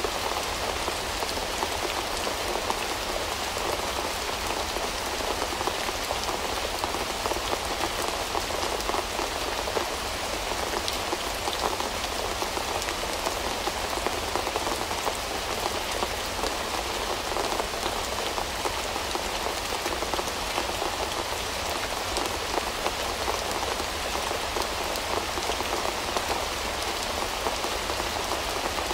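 Steady rain: a dense, even patter of raindrops that holds the same level throughout, with no thunder or breaks.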